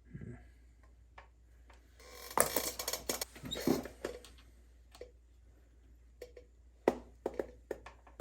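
Irregular clicks and rattles of small metal tools and parts being handled, with a busy stretch of clattering about two seconds in and a couple of sharp clicks near the end.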